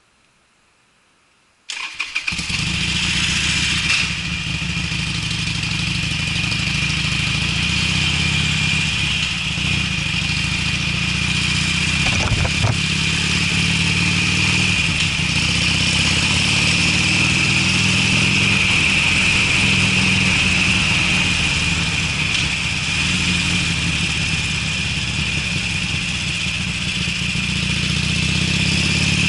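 Harley-Davidson Sportster's air-cooled V-twin, fitted with Screamin' Eagle mufflers, starting up about two seconds in and then idling steadily with a deep, lumpy exhaust note.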